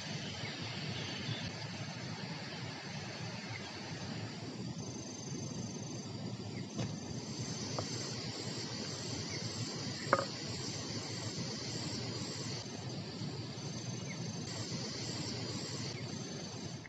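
Outdoor countryside ambience: steady high-pitched insect buzzing that pulses on and off, over a low rumbling noise, with a couple of faint knocks.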